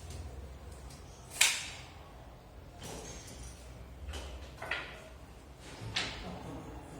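Kitchen door banging: one sharp bang a little over a second in, then four fainter knocks and clicks spread over the next few seconds.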